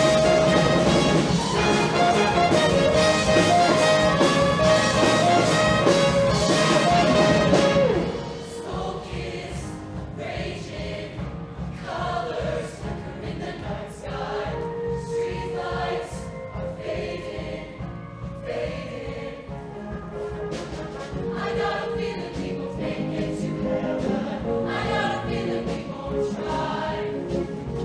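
Show choir performing with a live band: a loud full ensemble drops away suddenly about eight seconds in, leaving quieter choral singing over lighter accompaniment.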